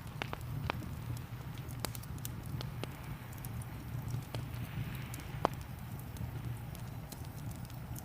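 Wood fire in a fireplace crackling, with irregular sharp pops and snaps over a steady low rumble and a soft rain hiss. The sharpest pop comes about five and a half seconds in.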